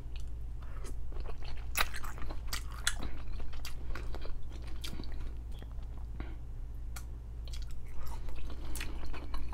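A person chewing and eating forkfuls of saucy noodles, with irregular wet mouth clicks.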